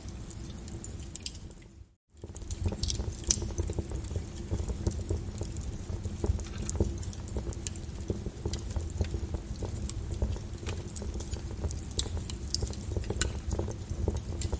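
Wood fire burning in a fireplace: a steady low rumble with constant crackling and frequent sharp pops. The sound dips to silence for a moment about two seconds in, then comes straight back.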